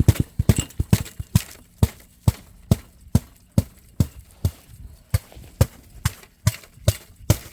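Footsteps crunching on ice-crusted snow, a sharp crunch about twice a second at a walking pace.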